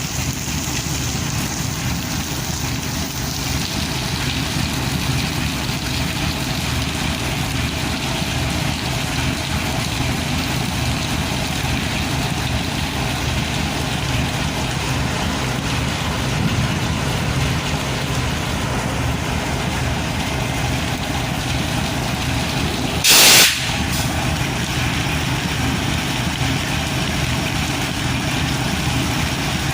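Diesel locomotive engine idling with a steady low rumble under the hiss of heavy rain. About three-quarters of the way through, a sudden loud hiss lasts about half a second.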